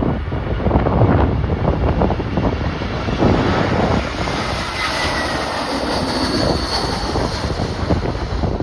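Jet airliner's engines passing overhead, a high engine whine swelling in the second half, over strong gusting wind buffeting the microphone.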